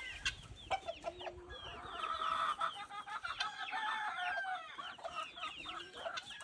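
A flock of chickens clucking and calling, many short overlapping calls at once, louder for a couple of seconds in the middle.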